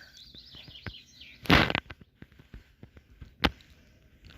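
Small birds chirping in quick high runs for about the first second, then a loud brief handling noise about a second and a half in and a sharp click near the end of the third second, with small scattered clicks between.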